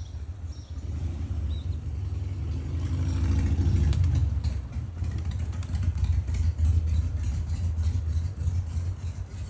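A motor vehicle's engine passing, its pitch rising to a peak about four seconds in and then fading, over a steady low rumble.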